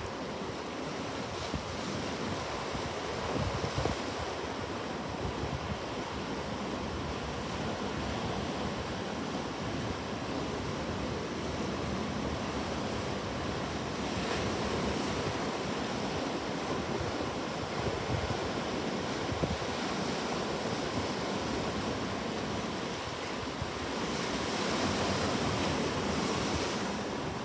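Ocean waves washing onto a shore in a steady rush, swelling and easing, with a louder surge near the end.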